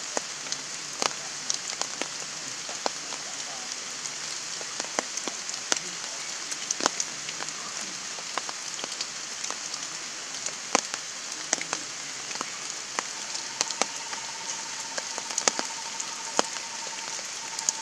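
Heavy rain falling steadily as a hiss, with frequent sharp drips and taps of drops hitting hard surfaces. A faint steady high tone joins in past the middle.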